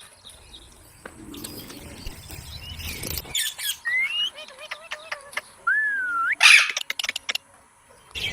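Pet parrots chirping and giving short gliding whistles, one rising whistle near the middle, then a loud harsh squawk about six and a half seconds in.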